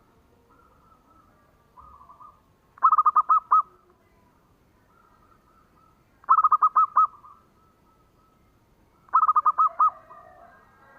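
Zebra dove (perkutut) cooing: three loud phrases of five or six quick staccato notes, about three seconds apart, with fainter coos at the same pitch between them.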